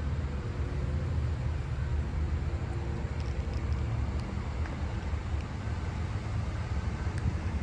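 Steady road and wind noise of a 2025 Honda Civic Hybrid being driven, a constant low rumble with no clear engine tone.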